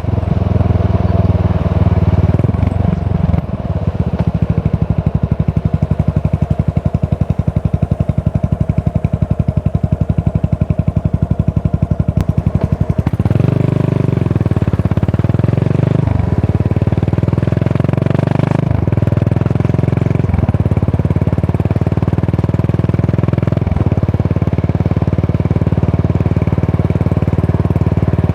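Yamaha SR400 single-cylinder engine running through a tapered-cone slip-on muffler while being ridden. For about ten seconds it turns over slowly at low revs, each firing beat distinct. Then it pulls harder and louder, the revs climbing and dropping back as it shifts up several times.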